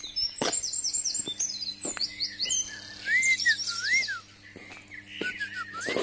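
Several songbirds singing at once: quick, high chirps and falling notes, then a run of lower looping whistled notes in the middle and again near the end. A few sharp clicks and a faint steady low hum sit underneath.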